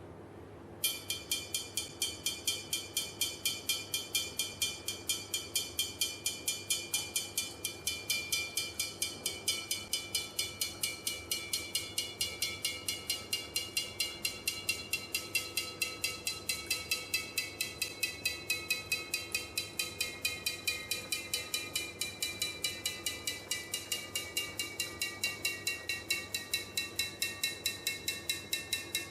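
A ringing object struck over and over at about four taps a second; the ringing tones slowly fall in pitch as the tapping goes on.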